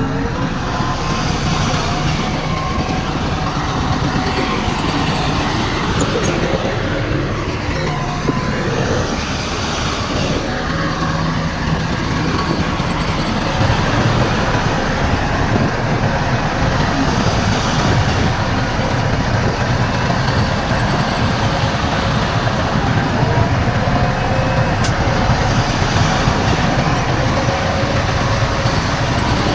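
Heavy diesel earthmoving machinery running steadily, a constant engine drone that grows a little louder about halfway through.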